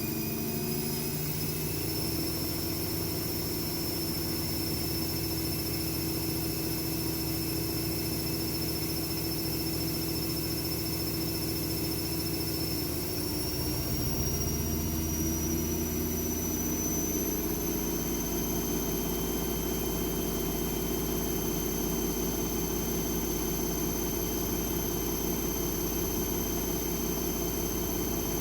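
AEG Lavamat W 1450 washing machine spinning a load of towels: the motor's whine rises as the drum speeds up, pauses at one speed, climbs again about halfway through, then holds steady at the higher speed.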